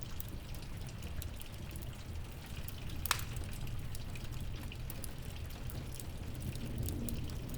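Steady rain with a crackling wood fire: frequent small pops and one louder pop about three seconds in, over a low rumble.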